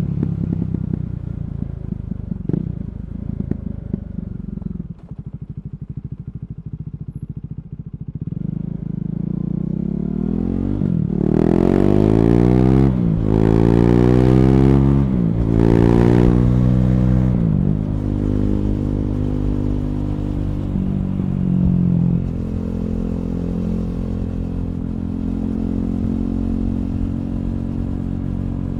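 KTM Duke 390's single-cylinder engine through an Akrapovic slip-on exhaust with the catalytic converter removed (decat). It runs at low revs at first, then accelerates hard from about eight seconds in, the revs rising and dropping back at three upshifts, and settles to a steady cruising note.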